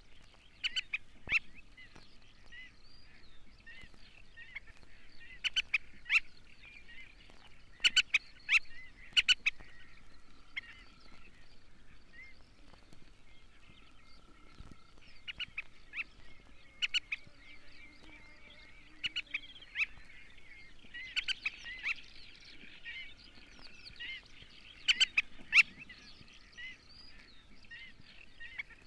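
A flock of black-winged pratincoles calling: a steady chatter of short chirps, broken every few seconds by loud clusters of sharp, clipped calls.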